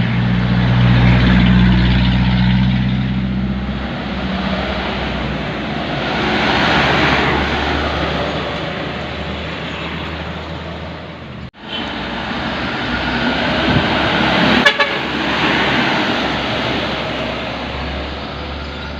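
Dump truck diesel engine running under load, steady for the first few seconds and then rougher and noisier. The sound drops out briefly for an instant about halfway through.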